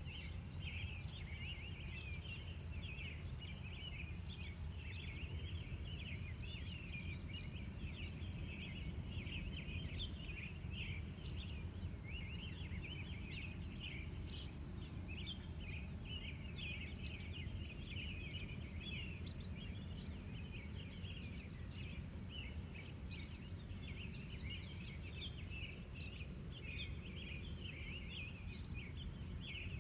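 Crickets trilling steadily, with a dense scatter of short high chirps and a few bird calls over a low steady rumble. A brief higher call rises above the rest about four-fifths of the way through.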